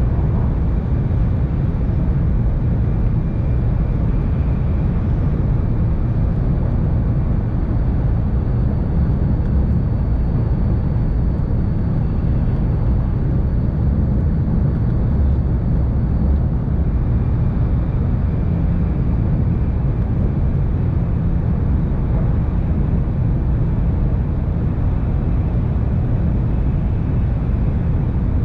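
Steady low rumble of a Tohoku Shinkansen train running at speed, heard from inside the passenger cabin, with a faint high whine through the first half.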